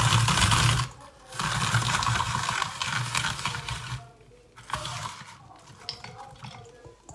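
Hand-cranked Saladmaster vegetable grinder (rotary cone slicer) being turned, its blade cutting vegetables with a steady rattling whir. It pauses briefly about a second in, runs again until about four seconds in, then only a few faint clicks and handling sounds follow.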